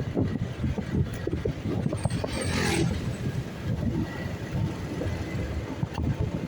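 Motorcycle riding with engine and road noise and wind buffeting the microphone. About two and a half seconds in there is a brief hissing sweep that falls in pitch.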